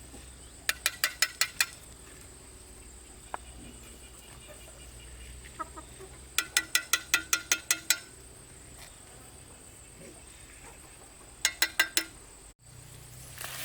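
A hen clucking in three quick runs of sharp, evenly spaced clucks, about seven a second: a short run near the start, a longer one in the middle, and a brief one near the end.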